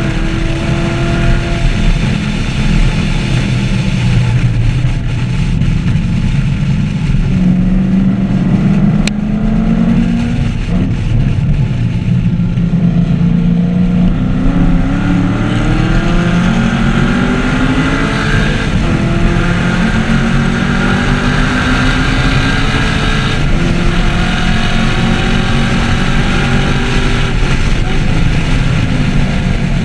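The V8 engine of a 2014 Chevrolet Camaro 1LE running hard on a race track. It is loud throughout, and its pitch rises and falls over and over as the car accelerates, shifts and slows for corners.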